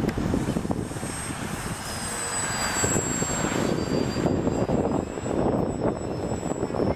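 High whine of an RC VisionAire airplane's electric motor and propeller in flight; the pitch dips slightly a couple of seconds in, then holds steady. Heavy wind buffets the microphone underneath.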